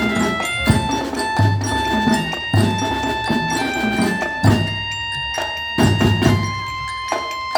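Marching band playing: ringing pitched percussion notes carry a melody over heavy, regular drum strikes.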